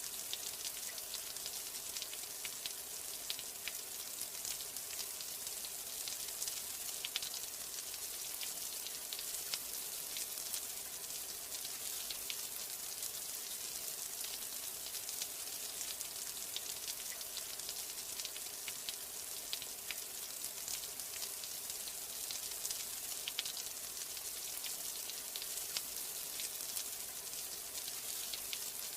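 Steady rain falling, a dense high hiss with many scattered drop ticks, unchanging throughout.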